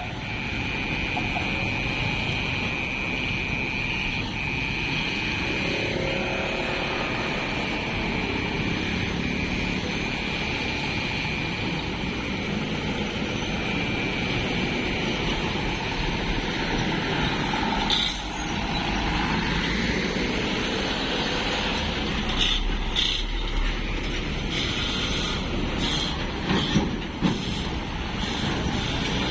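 Passing train: a steady rumble and rattle, with a thin high steady tone for the first several seconds, a knock about 18 seconds in, and a run of sharp clicks and clanks near the end.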